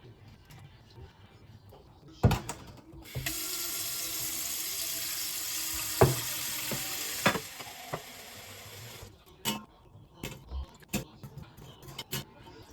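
Water tap running into a sink for about six seconds, with a few sharp knocks during the flow; a clack about two seconds in before it starts, and scattered small knocks after it shuts off.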